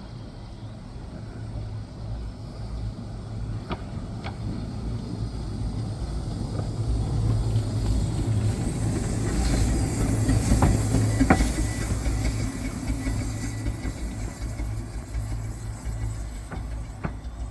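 Miniature steam train on the 15-inch gauge line passing by: a rumbling run that grows louder to a peak about two-thirds of the way through, then fades, with a few sharp clicks of the wheels over the rails.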